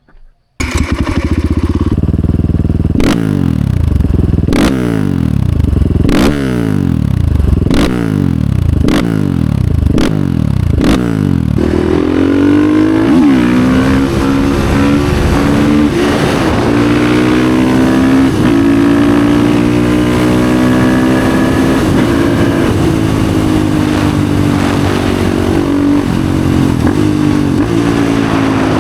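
Husqvarna FE 450 single-cylinder four-stroke motorcycle engine with an FMF exhaust being ridden hard. For the first ten seconds or so the pitch climbs and drops again about every one and a half seconds, with a sharp crack each time. It then settles into a steadier note that rises and falls slowly.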